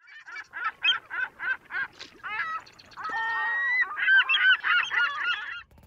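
Birds giving loud honking calls: a quick run of short repeated calls, a longer drawn-out call about three seconds in, then another fast run of calls that breaks off just before the end.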